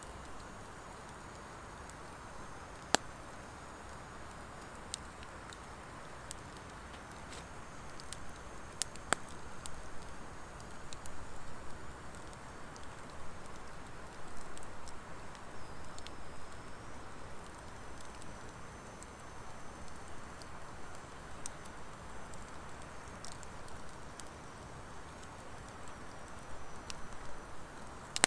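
Wood fire of driftwood and dry hardwood burning in a fire pit: a steady rushing flicker of flames broken by sharp crackling pops, the loudest about three and nine seconds in. From about eight seconds on the flames get louder and more uneven.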